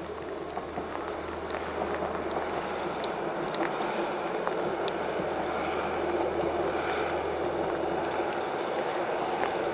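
Distant two-car diesel passenger train running along the line, a steady low rumble and rushing noise that grows slowly louder, with scattered faint ticks.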